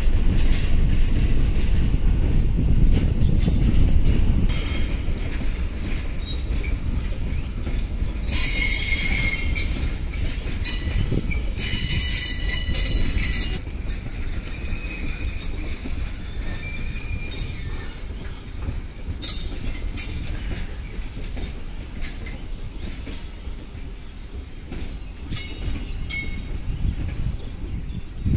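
Container freight wagons rolling past on the rails: a steady low rumble that slowly eases off, broken by high-pitched wheel squeals, two long ones about eight and twelve seconds in and shorter ones later.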